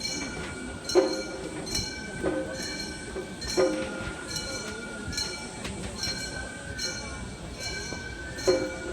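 Gion-bayashi float music: small bronze kane gongs struck in a quick, slightly uneven rhythm, about one to two ringing strikes a second, over a steady high held tone.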